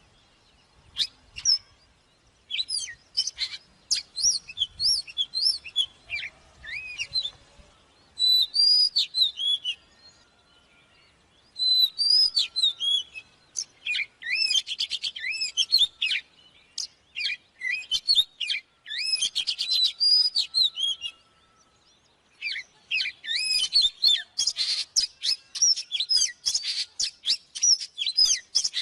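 Oriental magpie-robin singing: bursts of varied whistled phrases with sliding notes and quick trills, broken by short pauses about ten seconds in and again about twenty-two seconds in.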